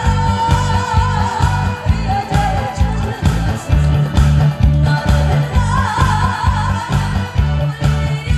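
A woman singing with vibrato over a backing track with a steady, heavy bass beat.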